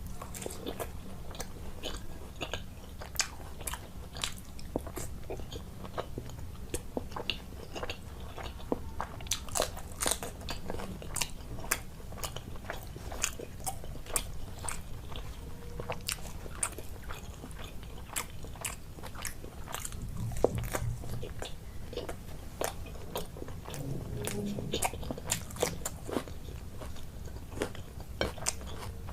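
A person eating close to the microphone: chewing and biting with many quick, sharp clicks and wet mouth sounds.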